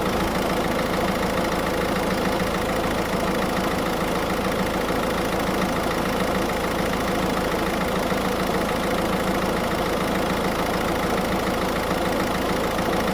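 Car engine idling steadily with the air conditioning switched on, while refrigerant from a recharge can is drawn in through the low-pressure port.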